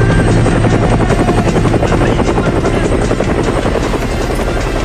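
Helicopter sound effect: a steady, rapid rotor chop.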